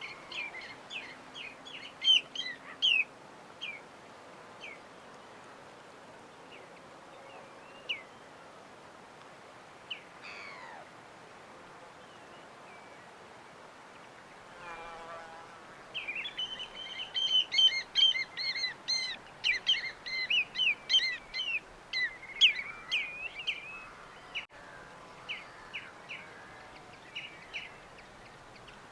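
Small birds chirping and twittering over a steady background hiss: scattered short chirps at first, then a dense run of quick, overlapping song through the second half.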